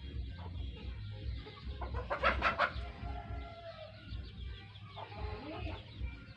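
A bird giving a quick run of about five harsh, clucking notes about two seconds in, with fainter calls later, over a low steady hum.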